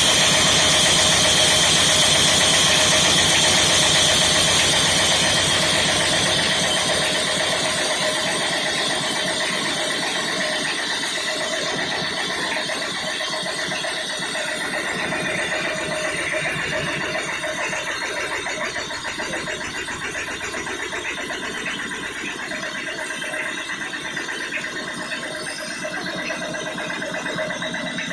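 Power saw running steadily, loudest for the first six seconds or so and then slowly getting quieter.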